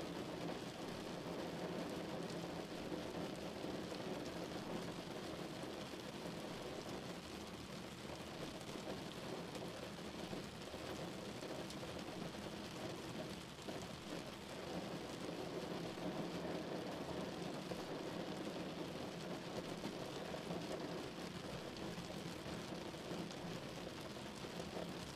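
Rain hitting a moving car's windscreen and body, heard from inside the car, over steady tyre noise on the wet road.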